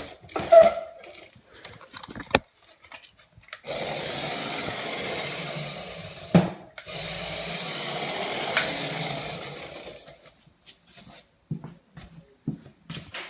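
Toy-grade RC car's small electric motor and gears whirring as it drives, in two runs of about three seconds each with a sharp knock between them. Scattered clicks and knocks come before and after the runs.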